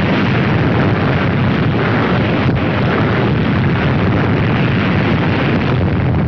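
Loud, steady rumbling rush of noise with no clear rhythm or pitch, heaviest in the low end.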